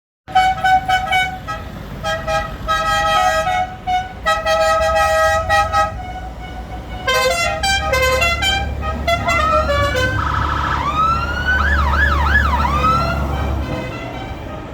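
A run of short pitched horn toots from the passing vehicles, then a siren rising and warbling up and down. Under the siren is the low rumble of a passing farm vehicle's engine.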